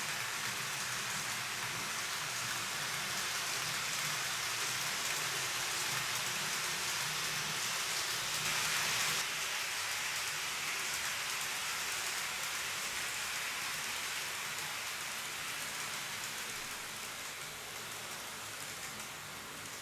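TOMIX N-gauge 583-series model train running on its track: a steady hiss and rattle of the wheels and motor that swells to its loudest about nine seconds in, then slowly fades.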